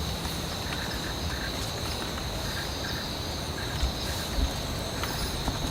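Forest insects shrilling in two steady high tones over an even hiss of rain, with a few faint short calls and two soft low thumps a little before the end.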